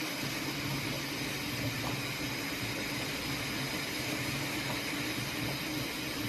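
A 3D printer running mid-print: a steady whirring hum of its fans and motors.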